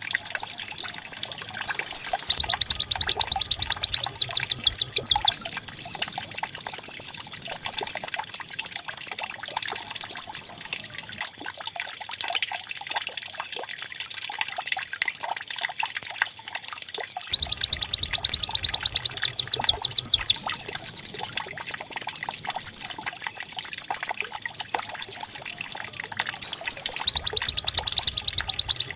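White-eye (pleci) singing in long, high-pitched bouts of rapid trills and warbling glides, with a canary-like quality. It is a recorded lure song meant to prompt caged white-eyes to sing. The song drops to a quieter stretch about eleven seconds in and returns loudly about six seconds later, repeating the same phrases.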